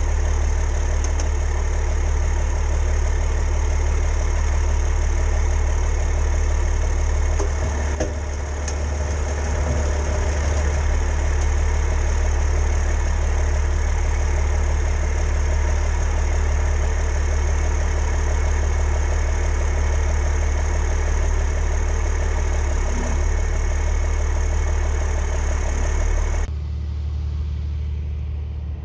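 Steady running of a machine or motor, a constant low hum with many steady overtones, which cuts off suddenly near the end.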